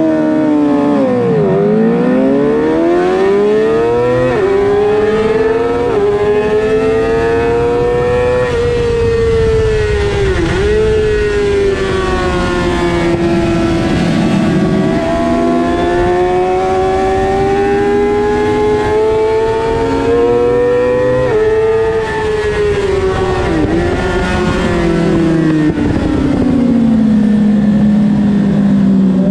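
Suzuki GSX-R600 inline-four engine heard from onboard on a race launch. The revs held on the line dip as the clutch is let out, then climb high in repeated runs, each cut short by a sudden drop in pitch at an upshift. Near the end the revs fall steadily as the bike slows for a corner.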